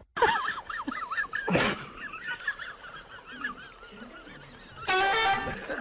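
Many short, high chirping calls overlapping, like a group of birds, with a sudden noisy burst about a second and a half in and a louder, harsher call near the end.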